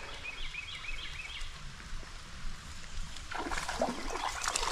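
Creek water running steadily, with a quick run of faint high chirps near the start. About three seconds in, irregular splashing starts: a hooked trout thrashing at the surface.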